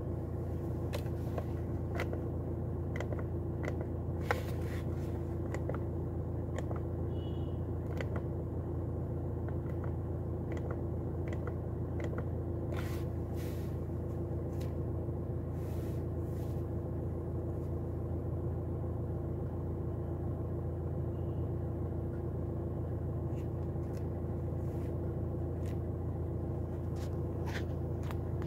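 Maruti Suzuki Swift Dzire's engine idling steadily just under 1,000 rpm, heard inside the cabin as a low even hum with a faint steady tone. Scattered light clicks are heard throughout.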